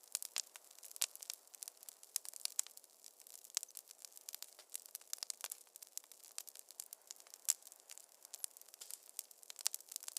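Wood fire in a fireplace crackling: dense, irregular sharp pops and snaps over a faint hiss, with a few louder pops, one about seven and a half seconds in.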